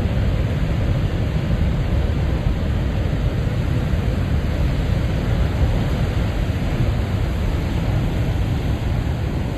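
Ocean waves breaking on a rocky tide-pool shore at high tide: a steady, unbroken rush of surf, heaviest in the low end, with no pause between waves.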